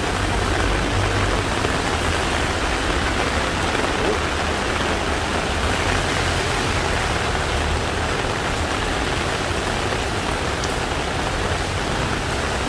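Heavy rain falling steadily: an even, continuous hiss of downpour with a low rumble underneath.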